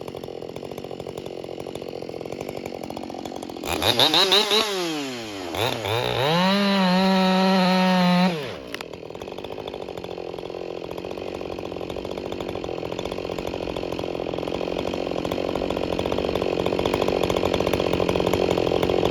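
Ported Husqvarna 572 XP two-stroke chainsaw idling, revved up hard about four seconds in, dipping briefly, then held at a steady full throttle for about two and a half seconds before dropping back to idle.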